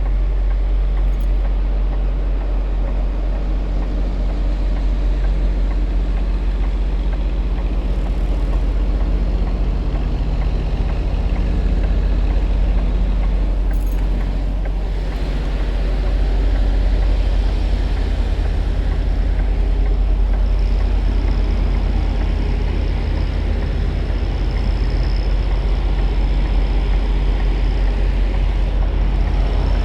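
Semi truck's diesel engine running steadily with a low hum, with one brief click about fourteen seconds in.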